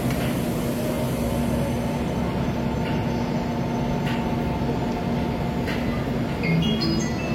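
Electric commuter train running: a steady rumble with a low hum and occasional faint clicks. Near the end, high tones step upward.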